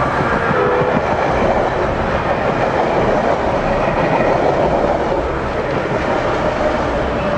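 Metra commuter train passing at speed: a steady rush of wheels and cars with clickety-clack over the rail joints.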